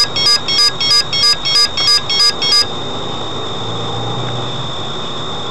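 Electronic beeper sounding rapid, even beeps, about three a second, that stop about two and a half seconds in; a steady noisy hum with a thin high whine carries on underneath and after.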